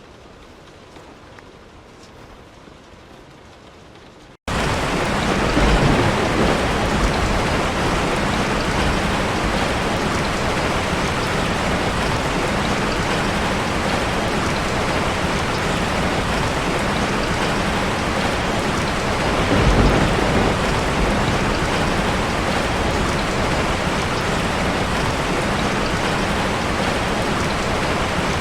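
Heavy, steady rain. It starts abruptly about four seconds in, after a much quieter hiss, and low rumbles of distant thunder swell up just after it starts and again around twenty seconds in.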